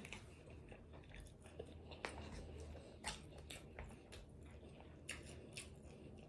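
Faint close-up chewing of a mouthful of a Chipotle chicken bowl, with a handful of short soft clicks of the metal fork against the bowl, the sharpest about two, three and five seconds in.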